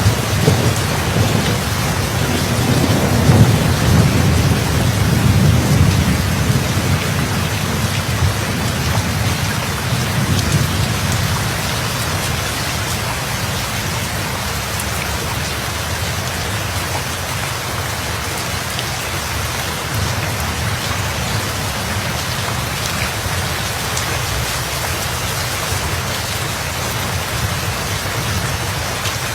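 Steady heavy rain falling, with a low rumble of thunder in the first few seconds that dies away, leaving only the rain.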